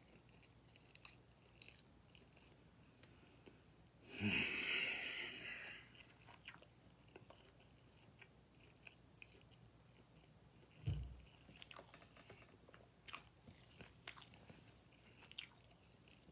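A person chewing barbecue-sauced pork ribs, with scattered small wet mouth clicks. About four seconds in there is a loud breathy exhale, and a dull low thump comes near eleven seconds.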